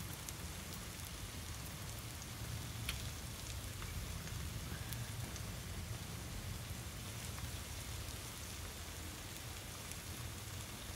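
Eggs and onion masala frying in a pan: a steady soft sizzle with occasional faint pops, over a low steady hum.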